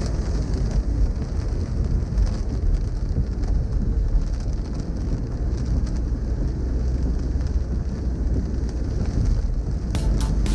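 Rain on a car's windshield and roof over a steady low hum of engine and tyres on a wet road, heard from inside the cabin. Music comes in near the end.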